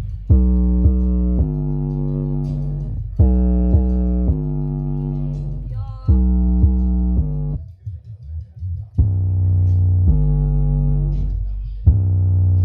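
Deep plucked bass-line music played loudly through a 600-watt subwoofer: sustained low notes with sharp attacks, in short phrases, with a brief drop-out about seven and a half seconds in before the bass comes back.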